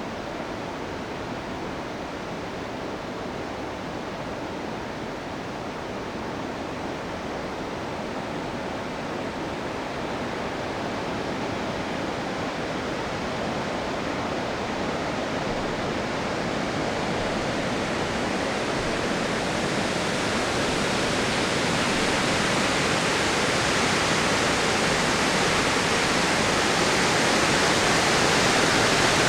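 Water discharged from the Kawaji Dam, a concrete arch dam, rushing in a steady roar during a flood-control release after heavy typhoon rain. The rush grows gradually louder and brighter throughout.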